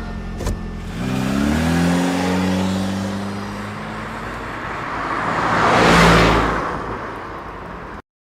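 Car engine pulling away, its pitch rising about a second in and then holding steady. A rush of noise swells and fades about six seconds in, like a vehicle going past, and the sound cuts off suddenly near the end.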